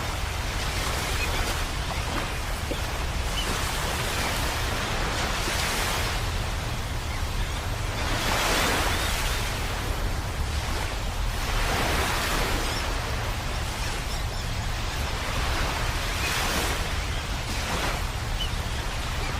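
Ocean surf: waves breaking and washing in every few seconds, each a swelling hiss that fades away, over a steady low rumble.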